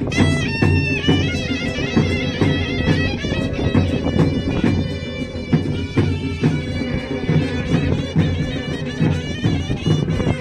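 Traditional Himachali procession music: a reedy wind instrument plays a wavering melody over steady, dense drumming.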